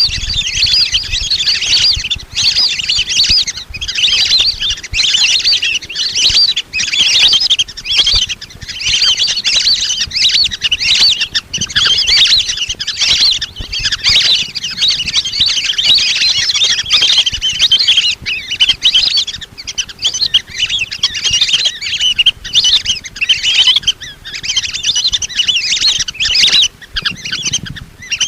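A flock of lesser whistling ducks calling nonstop, many short high whistles overlapping in a dense chatter: the flock call used to lure the ducks in.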